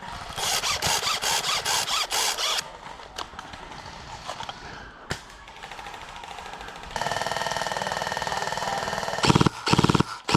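Airsoft electric rifle firing full-auto bursts, a rapid mechanical buzzing rattle. There is a burst near the start, a long steady burst from about seven seconds in, and louder short bursts near the end.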